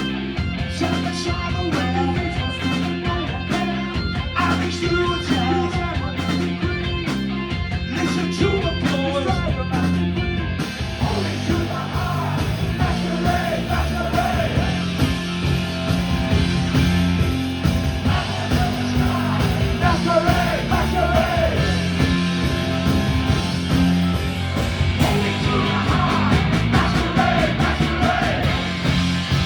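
Live punk rock band playing loud, with electric guitars, bass and drums, and vocals over them. The sound gets fuller in the treble about ten seconds in.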